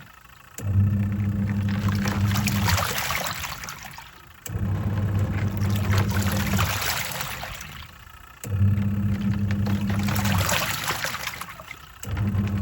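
Twin-tub washing machine washing a load: the wash motor hums for about two seconds, cuts out while the water swishes on and fades, then starts again, about every four seconds as the pulsator reverses direction.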